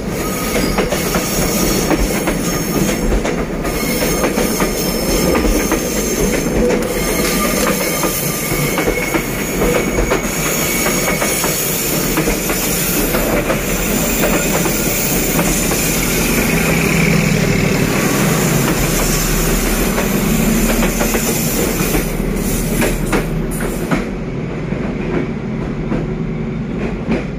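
Passenger coaches of a train rolling past close by on a curve. The wheels clatter over the rails, with high steady wheel squeals at times. About 24 s in, the highest part of the sound drops away and it quietens as the last coach goes into the tunnel.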